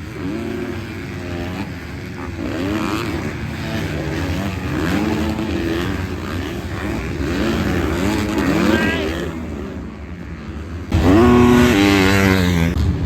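MX2-class motocross bikes racing, their engines revving up and dropping back again and again through the gears. About eleven seconds in, a much louder bike comes in close.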